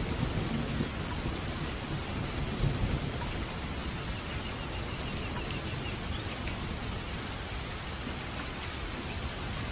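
Steady rain falling on a roof, with a low rumble of thunder in the first few seconds that dies away.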